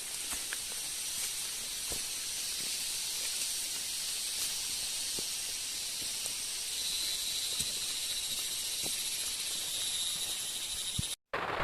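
Steady high-pitched hiss of outdoor forest ambience, with a few faint scattered ticks. Near the end it cuts off abruptly and gives way to a louder, fuller rushing noise.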